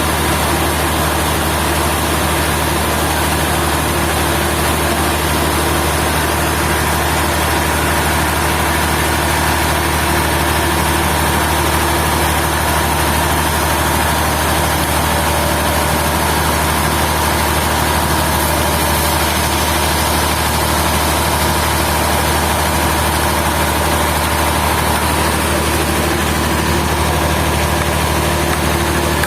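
Sawmill machinery running steadily: a constant engine drone with a steady higher whine over it.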